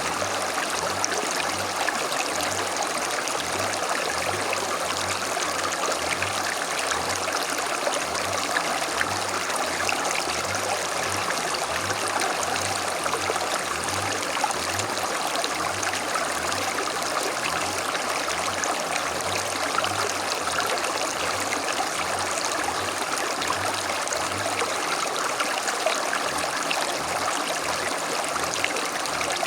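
A small creek running steadily over stones, a continuous babbling and trickling of water.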